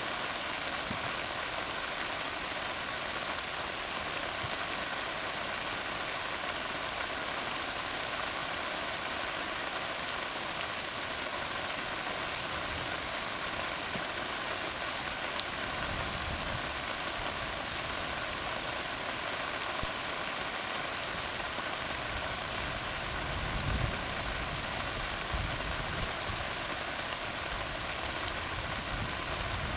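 Steady rain falling on a tar road, a dense even hiss with scattered sharper drop splats. A low rumble swells in now and then in the second half.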